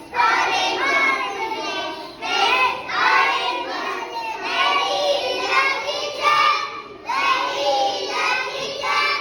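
Young children's voices singing a song in short phrases, with brief pauses between the lines.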